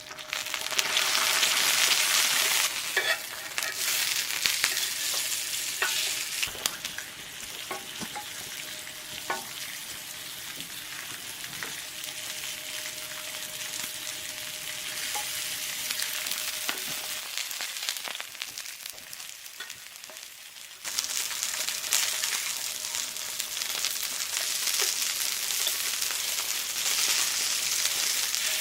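Food sizzling in a frying pan, with a few light clicks from utensils stirring it. The sizzle drops away for a few seconds about two-thirds of the way through, then comes back suddenly.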